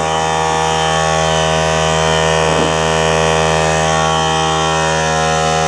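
Small portable electric air compressor running steadily under load, pumping up its tank, with an even motor hum.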